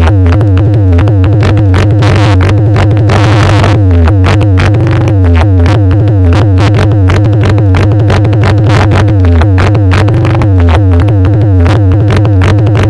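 Loud electronic dance music blasting from a DJ sound system, with a heavy, continuous bass and a fast beat. A hissing swell rises about two seconds in and lasts around a second and a half.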